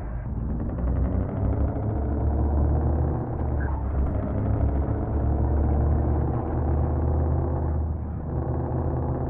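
Truck engine running steadily, easing off briefly about eight seconds in.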